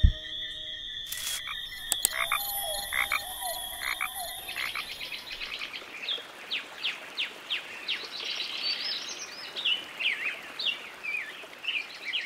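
Background music with steady held tones ends about four and a half seconds in. After that a bird sings a rapid, chattering song of short, high, sweeping notes, repeated over and over.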